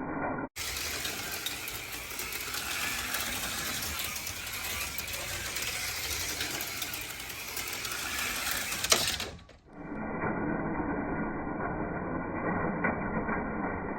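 HO-scale slot cars running on the track: small electric motors whirring with a steady mechanical rattle. About nine seconds in there is a sharp knock, and the sound cuts off; after that the running sound carries on, duller and muffled.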